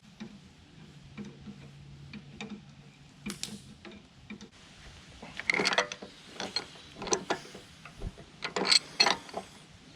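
A run of irregular mechanical clicks, knocks and rattles, with two louder clusters of clanks about halfway through and near the end.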